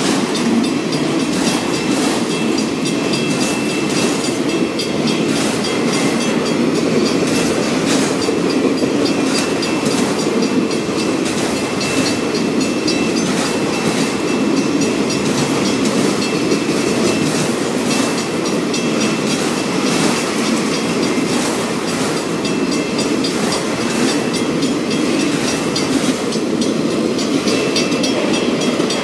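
Freight train of autorack cars rolling steadily past at a grade crossing: a continuous rumble of the cars with wheels clicking irregularly over rail joints.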